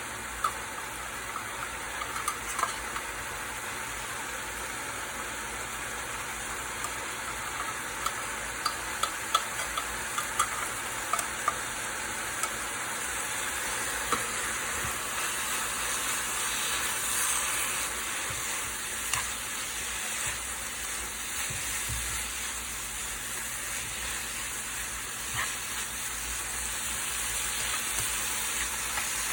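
Food sizzling in a frying pan while it is stirred, with frequent sharp clicks of a utensil against the pan, thickest in the first half.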